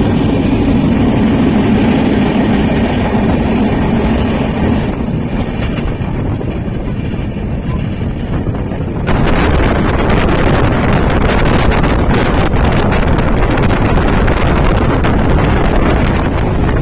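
Steady low rumble of a train ride. About nine seconds in it changes suddenly to a louder, even rushing noise like wind blowing across the microphone.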